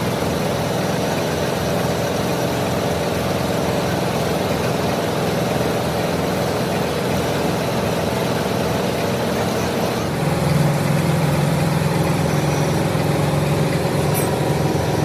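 Machine tool in a metal workshop running steadily with a continuous low hum; the hum steps up a little louder about ten seconds in.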